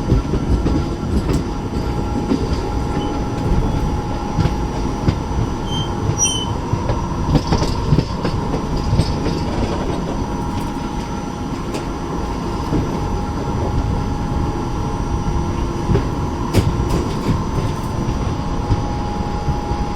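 Passenger train running, heard from inside a sleeper-class coach: a steady rumble of wheels on the rails, with a constant high whine and scattered clicks.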